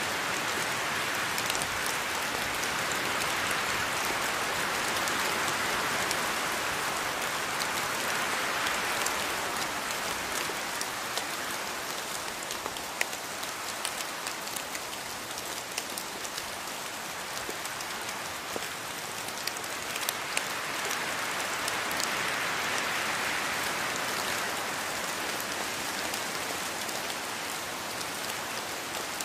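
Steady rain falling in a rainforest, with individual drops ticking sharply now and then. The rain swells and eases slowly.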